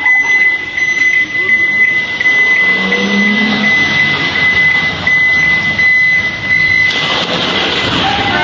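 A high-pitched electronic warning tone sounding steadily with a few brief breaks, over loud noise. The noise swells into a louder rush near the end.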